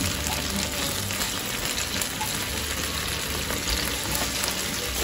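Chicken drumsticks sizzling steadily in a frying pan.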